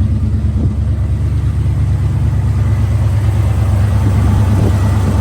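A 1977 Ford F350 tow truck's 400 V8 idling steadily with an even low hum.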